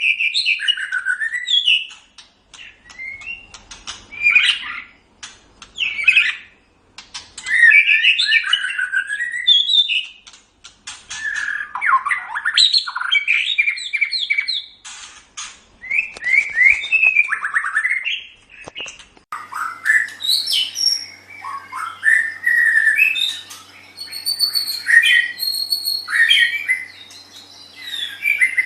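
White-rumped shama (murai batu) singing a string of varied phrases of quick whistled glides and chattering notes, with short pauses between phrases. About two-thirds of the way through, a faint steady hum starts beneath the song.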